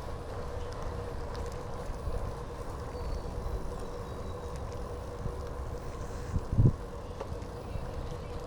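Steady low rumble and a faint steady hum from riding a bicycle, with a short thump about six and a half seconds in.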